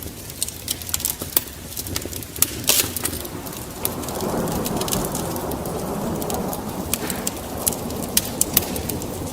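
Wood fire crackling with frequent sharp pops. About four seconds in, rain and a rolling rumble of thunder build up and carry on underneath.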